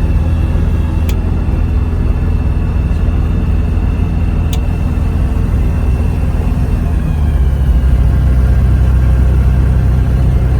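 Rotax 915iS turbocharged four-cylinder engine of a Magni M24+ autogyro running steadily in flight, heard on board as a loud low drone. About seven seconds in the engine note shifts and the low drone grows heavier.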